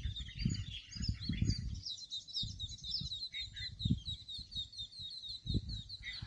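A songbird's long call: a few varied chirps, then from about two seconds in a fast, even run of short high notes at about five a second. Irregular low thumps sound underneath.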